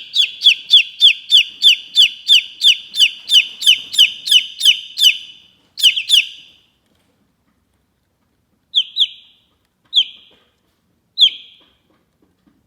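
Chicken chirping: a fast run of about fifteen short, falling chirps, roughly three a second, for about five seconds, then a few single and paired chirps spaced a second or more apart.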